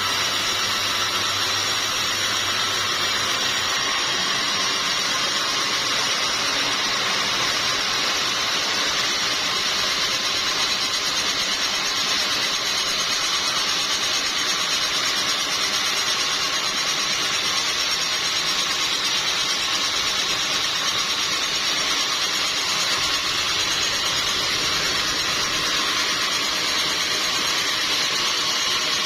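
Sawmill saw running steadily: a continuous, mostly high-pitched noise with no break. A faint low hum underneath drops away about three seconds in.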